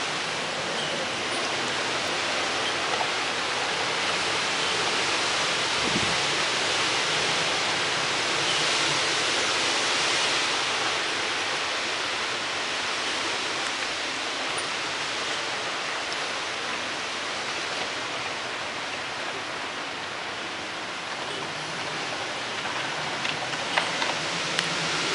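Strong gale-force wind rushing through trees in a steady noise, swelling in a stronger gust about ten seconds in.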